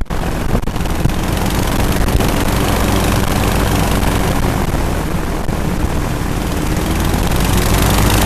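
Twin-engine aerosled under way, its engines and pusher propellers running steadily at speed with a broad rush of air.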